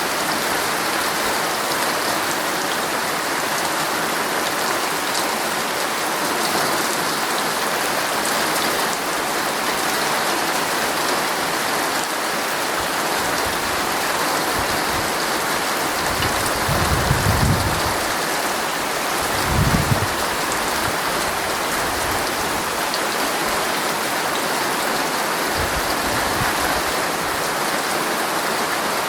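Heavy rain falling steadily on a tent, an even hiss of drops on the fabric. Two short low rumbles come about halfway through, a little louder than the rain.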